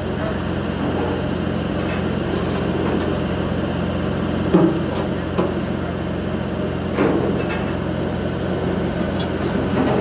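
A machine's engine running steadily, with three sharp knocks or clanks over it in the middle of the stretch.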